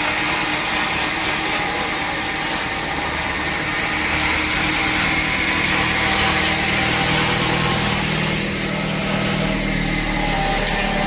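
Sawmill machinery running steadily with a continuous engine-like hum, deeper tones joining about four seconds in and again near the end.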